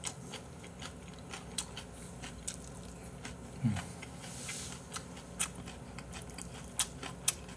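A person chewing a mouthful of food close to the microphone: a run of wet, sharp mouth clicks and crunches, with a short falling hum of appreciation about three and a half seconds in. The mouthful is the stir-fried shishito pepper and anchovy side dish.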